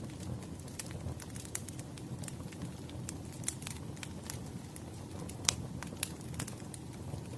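Wood fire burning in a fireplace: a steady low rumble with irregular sharp crackles and pops, one louder pop about halfway through.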